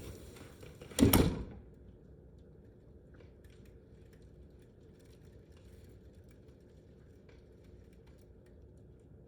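Wind buffeting the microphone, broken by a loud short bump about a second in. After it only a faint steady hum remains, with scattered light ticks.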